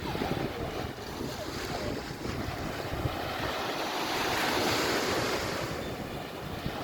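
Sea waves washing onto the beach, with wind buffeting the microphone; the wash swells up a little past the middle and then eases off.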